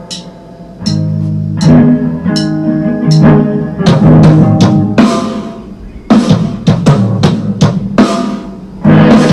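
Band music: guitars playing sustained chords, with a drum kit joining about a second in and hitting hard in irregular accents under the guitars.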